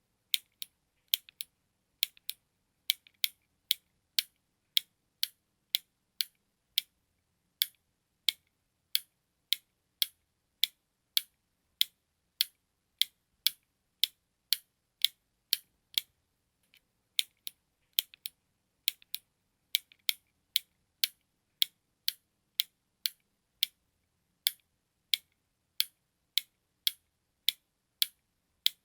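Button being clicked over and over: sharp, high clicks at about two a second, some coming in quick pairs, with a short pause about halfway through.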